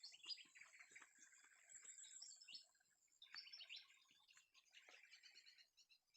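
Faint birdsong: a run of quick, high chirps and twitters from small birds, with a few soft ticks under them.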